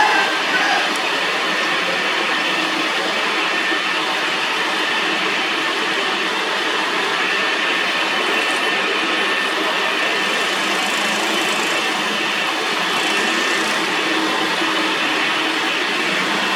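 Metal lathe running steadily, a continuous machine noise with a few faint steady tones.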